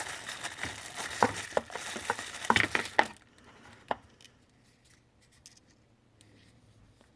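Plastic bag crinkling and rustling as it is pulled and torn open, with sharp crackles, for about three seconds. Then a single click and faint small handling ticks.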